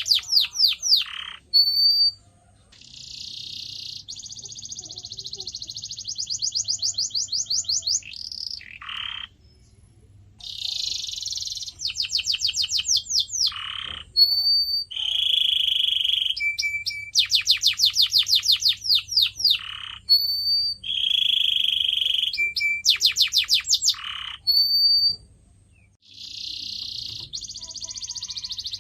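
Domestic canary singing: phrases of fast trills made of rapid sweeping notes, buzzy rolling passages and short high whistled notes, separated by brief pauses.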